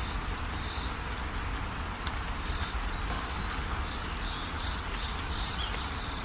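Steady rain with a bird singing a quick run of short, high, repeated chirps about two seconds in.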